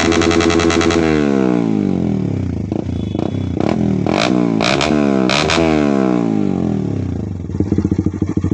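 Honda CBR150R single-cylinder engine with a racing exhaust, revved hard in neutral. The revs are held high, then drop, are blipped up again and fall back to a low, lumpy idle near the end, with a few sharp pops from the exhaust as the revs fall.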